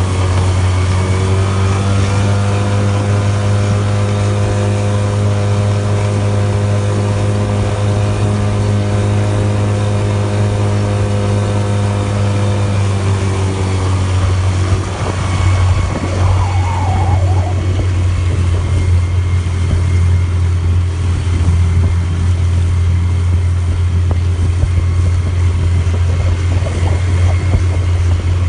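Suzuki DF20AS 20 hp four-stroke outboard motor running steadily at high revs. About halfway through, its even drone turns rougher and noisier.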